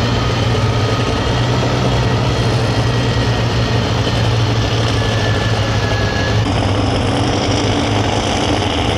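Super stock pulling tractor's engine running steadily at a low idle, with no revving.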